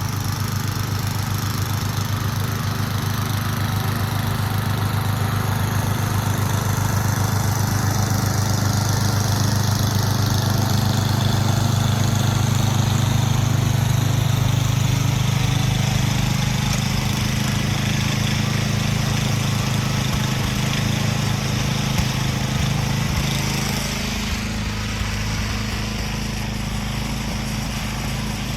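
Engine running steadily, getting louder through the middle and easing off somewhat about 24 seconds in.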